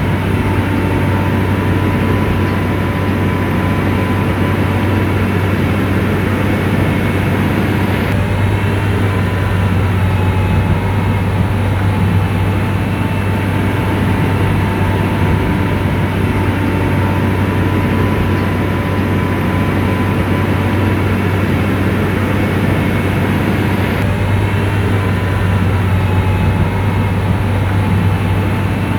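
Komatsu bulldozer's diesel engine running steadily under load, with a constant low hum and a steady whine above it.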